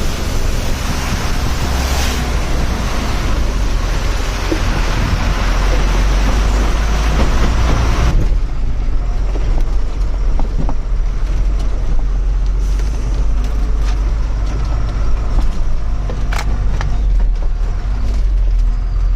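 Truck engine droning low while the truck jolts over a rough road, with scattered knocks and rattles. A broad hiss over it drops away suddenly about eight seconds in.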